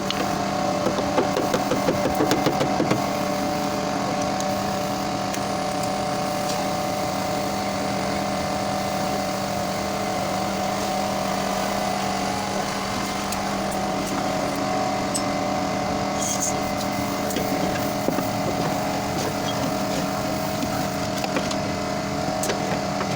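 A machine running steadily with a constant hum, with scattered light clicks over it.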